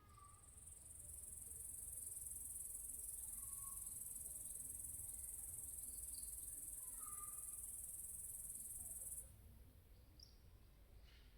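Insect buzzing: a steady, very high-pitched shrill that swells up over the first couple of seconds, holds, and stops abruptly about nine seconds in. A few faint short chirps sound beneath it.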